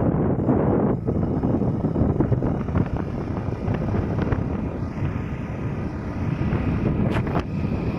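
Steady wind rush on the microphone and motorcycle running noise from a ridden Hero HF Deluxe commuter bike, with a couple of brief clicks about seven seconds in.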